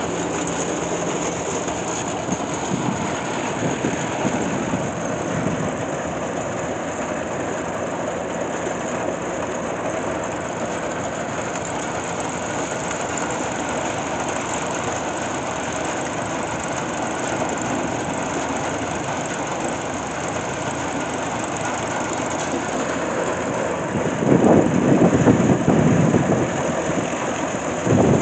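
Old machinery running steadily, with a louder surge of low noise near the end.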